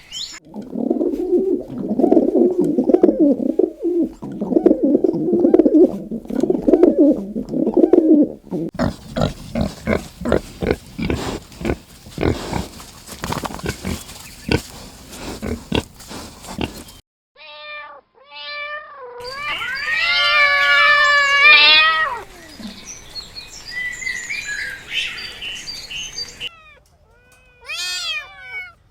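A run of animal sounds: a low rumbling for the first eight seconds, then a long stretch of quick clicks, then several cat meows, one loud falling call about twenty seconds in, and high, quick chirping calls near the end.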